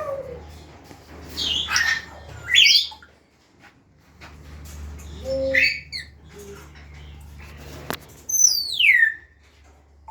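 African grey parrots calling: about four loud squawks and whistles, the last a long whistle sliding down in pitch near the end, over a low steady hum.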